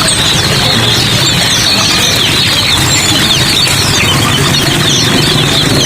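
Dense chorus of many small caged birds chirping at once, with short rapid chirps packed closely together, over a steady hiss and a low hum.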